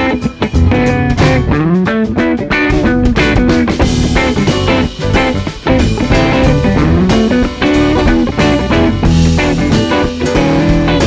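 Live band playing a song: guitar to the fore, with drums keeping a steady beat.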